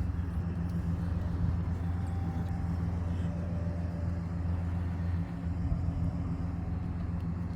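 A vehicle engine idling, a steady low hum that dips briefly about five seconds in.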